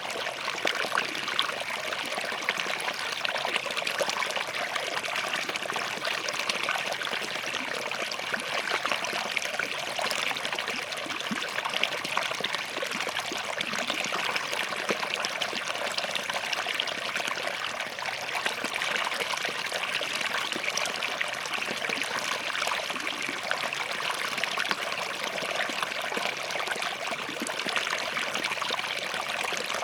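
Small forest stream running over and between rocks: a steady babble with many fine trickles and splashes.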